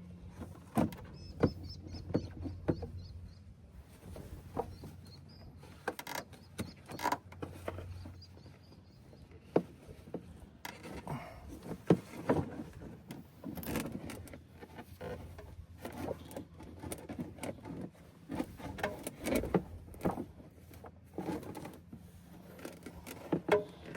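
Scattered clicks, knocks and rustles of hands handling a truck's plastic air filter housing and lifting the reusable air filter out.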